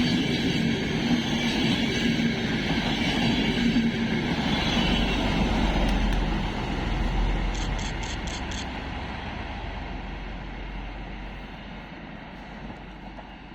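Train hauled by FS class D445 diesel locomotives passing and running away, loud at first and fading steadily through the second half. A quick run of about five faint high ticks comes about halfway through.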